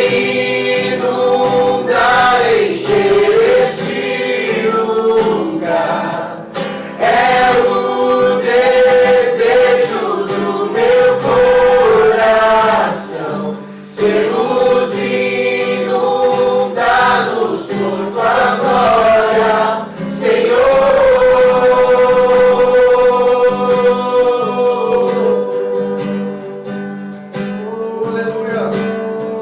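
Several voices singing a worship song together, accompanied by acoustic guitar; the singing thins out near the end.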